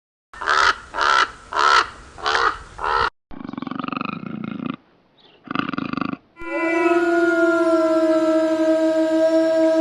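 Recorded animal calls: five short, evenly spaced calls, then two rougher, noisier calls. From about six and a half seconds a steady, unwavering tone begins and holds.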